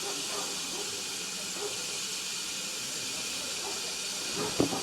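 Steam locomotive hissing steam in a steady, even hiss, with a single sharp knock near the end.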